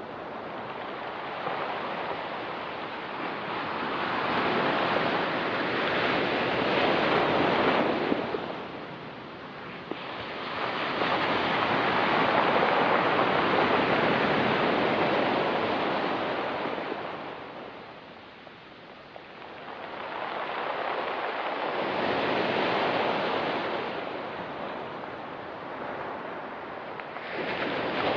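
Ocean surf on a rocky pebble beach: waves breaking and washing up the shore in slow surges that swell and fall back, about three in this stretch with another building at the end.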